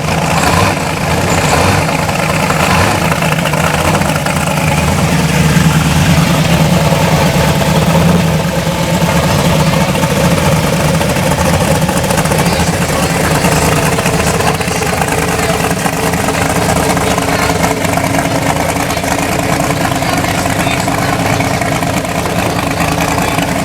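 Vehicle engine idling steadily, a little louder around five to eight seconds in, with voices in the background.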